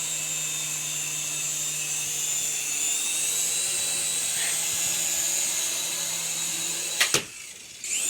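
Small electric RC helicopter's motor and rotors whining steadily at a high pitch. About seven seconds in there is a sharp knock, and the whine cuts off.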